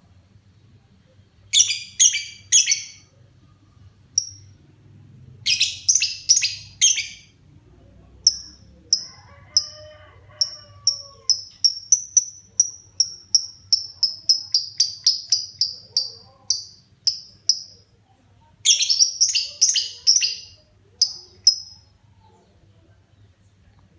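Lovebird singing: clusters of rapid, high, rattling chirps, then a long run of evenly spaced chirps at about two a second, then more rapid clusters. The bird is coming into full song ("gacor").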